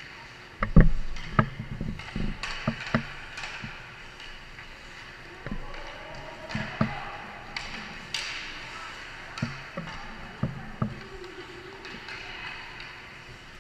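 Irregular sharp clacks and knocks of hockey sticks and puck during an ice hockey game, the loudest a heavy thud about a second in, with a cluster of hits in the first three seconds and scattered ones after.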